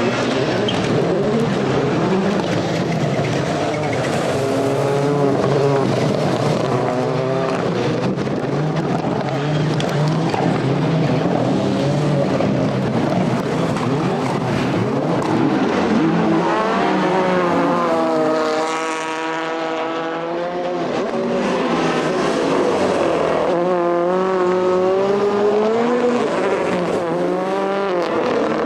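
World Rallycross Supercars, turbocharged four-cylinder race cars, running at racing speed, with several engines overlapping and revving up and down through the gears. About two-thirds of the way through, the overall din briefly drops and one engine is heard clearly as its revs climb and fall.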